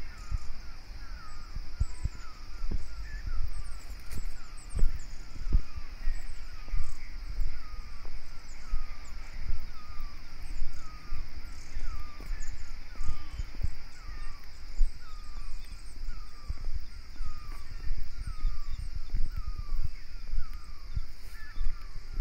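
A bird calling over and over, a short hooked note about once or twice a second, over a steady high insect drone. Low thumps of footsteps come irregularly as someone walks along the track ballast.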